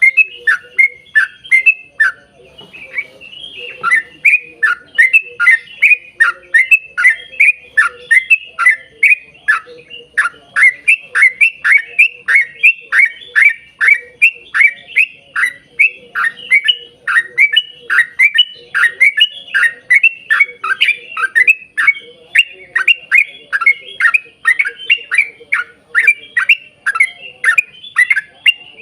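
Yellow-vented bulbul (trucukan) singing a long, fast run of short downward-sweeping notes, about two to three a second, with a brief pause about two seconds in.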